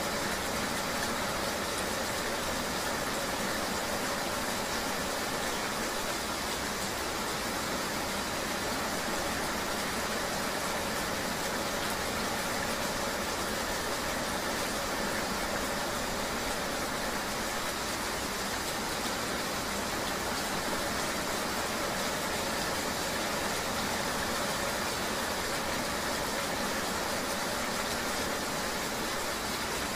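Steady rain mixed with a motor vehicle engine running at a constant pace, an even, unbroken wash of noise with a faint low hum.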